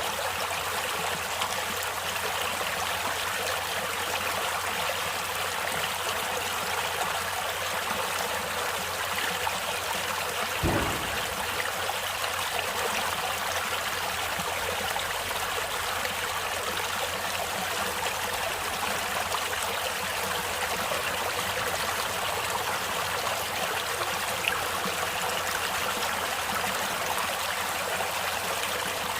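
Water of a stream or river flowing steadily in a continuous even rush, with one brief low thump about a third of the way through.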